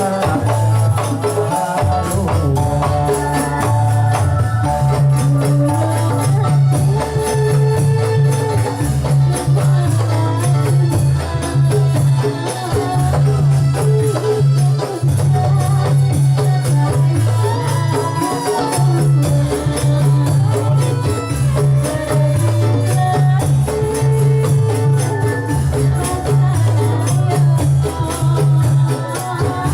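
Dolalak dance music: jingling, tambourine-like percussion and drums over a repeating bass line, with a melody of held notes on top.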